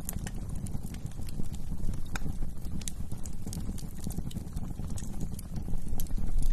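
Wood fire crackling in a fireplace: irregular sharp pops and snaps of burning wood over a low, steady rumble of the flames.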